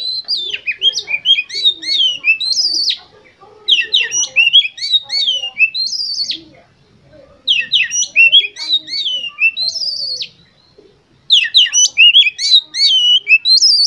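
Oriental magpie-robin (kacer) singing loudly in four phrases of quick, varied whistles and trills, each about three seconds long, with short pauses between them.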